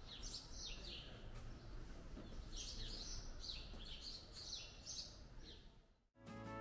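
Small songbirds chirping with many short, falling notes, one after another, over a faint low city hum. The birdsong cuts off near the end and music begins.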